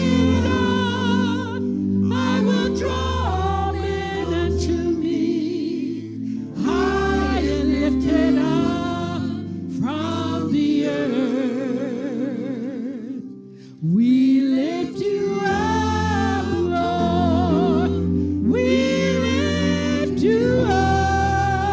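Gospel song: voices singing with vibrato over a bass accompaniment, dropping briefly about fourteen seconds in before picking up again.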